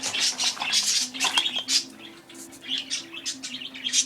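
Pet budgerigars chattering: a rapid, continuous run of chirps and warbles, briefly quieter about two seconds in.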